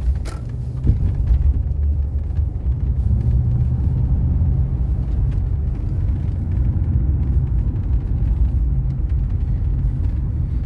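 Mercedes-Benz W126 500 SE with its V8 driving at high speed: a steady low rumble of engine and road noise.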